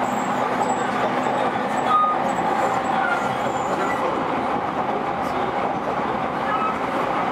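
Running noise heard inside a JR East E231 series electric train at speed: a steady rumble of wheels on rail, with a few brief faint high tones.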